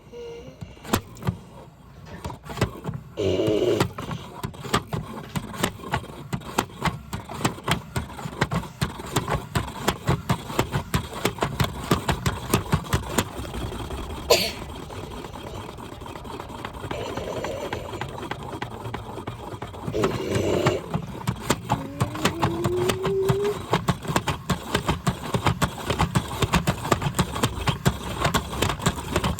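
Washing machine running, with a fast, irregular clatter of knocks and rattles that builds up over the first few seconds and keeps going.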